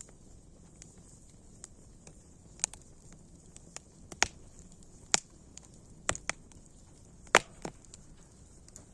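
Wood fire crackling: about half a dozen sharp pops at irregular intervals over a faint steady hiss, the loudest two close together about two-thirds of the way through.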